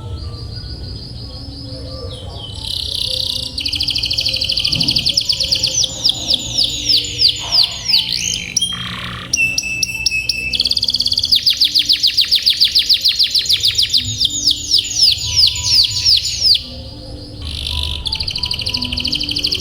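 Domestic canary singing long rolling trills of rapidly repeated high notes, with a held whistle near the start and two brief pauses between rolls.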